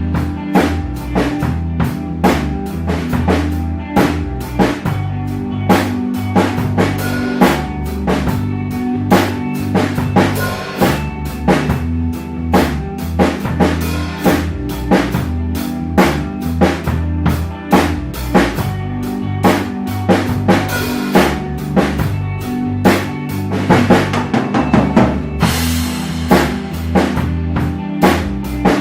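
Drum kit played in a steady rock groove of bass drum and snare hits, over an ambient rock backing track with a sustained bass line. A bright cymbal-like wash comes in near the end.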